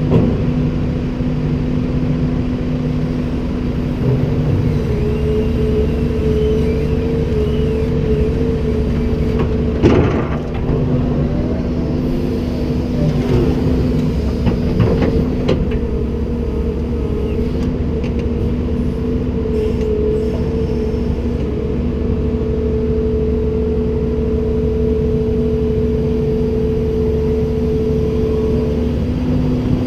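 Komatsu PC290-10 excavator's diesel engine running steadily under work, with a steady whine over it and a single sharp knock about ten seconds in.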